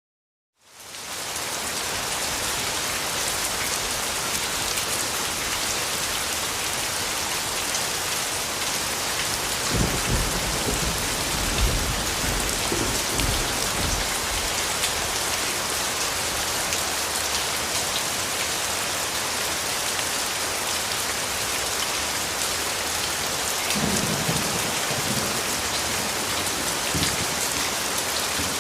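Steady heavy rain falling, fading in from silence in the first second. Low rumbles of distant thunder come through about a third of the way in and again near the end.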